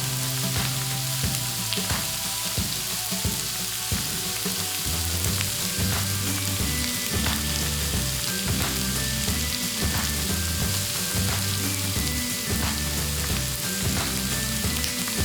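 Pork sizzling and frying on a Thai mookata tabletop grill pan: a steady hiss with scattered sharp clicks.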